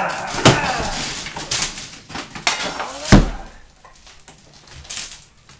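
Heavy hand-tool blows striking a solid brick hearth: several sharp impacts, the loudest a heavy thud about three seconds in, with short voices between them.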